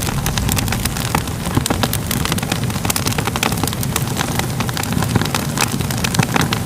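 Wood fire crackling: a steady low rumble of flames with many irregular sharp pops and snaps.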